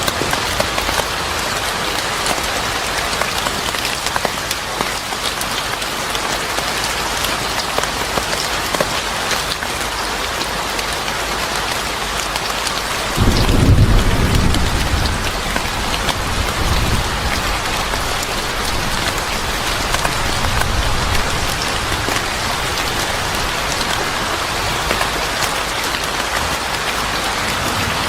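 Steady rain falling and pattering on surfaces. About halfway through, a roll of thunder breaks in suddenly with a deep rumble and then swells a few more times as it fades away.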